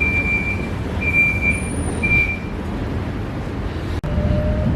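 Train's door-closing warning beeping: a high, steady electronic beep repeating about once a second, stopping about halfway through, over the low rumble of the waiting train. Near the end the sound cuts out for an instant, then a faint steady hum sets in.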